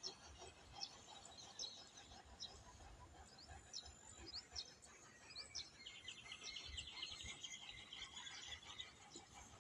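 Faint birds chirping, with scattered short high calls and a quick run of chirps a little past the middle, over a low, quiet outdoor background.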